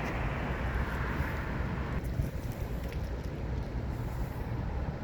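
Steady low rumble of outdoor street noise with no clear separate events; it turns duller and more muffled abruptly about two seconds in.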